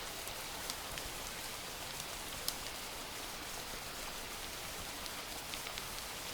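Steady rain falling, with scattered louder drops ticking on a hard surface.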